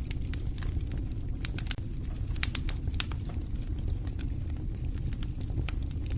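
Campfire crackling, with frequent sharp pops and snaps over a steady low rumble. The loudest pops come about halfway through.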